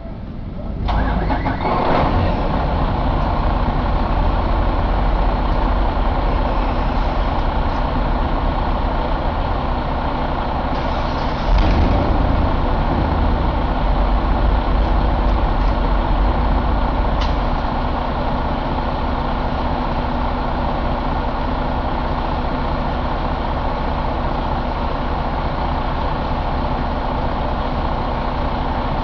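A Detroit DD15 inline-six diesel engine starts up and runs steadily, with a brief louder surge about 11 to 12 seconds in. From about 18 seconds in it settles a little quieter.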